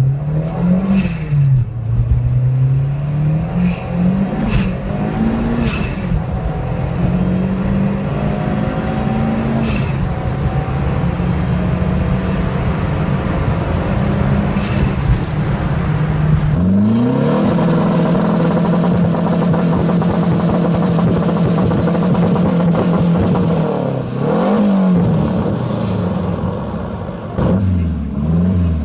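Renault 5 turbo engine accelerating hard and changing gear, its pitch repeatedly climbing and then dropping, with sharp short cracks between shifts. About 16 seconds in, the sound changes to a steadier run held at one pitch, dropping and climbing again twice near the end.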